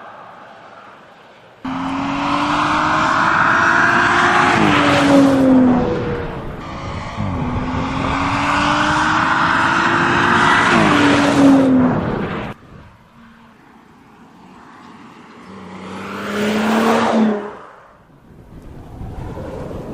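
Audi S5's 3.0-litre turbocharged V6 accelerating hard in two pulls: in each, the engine pitch rises steadily and then steps down at an upshift. Near the end a car passes by, swelling loud for a couple of seconds and then fading.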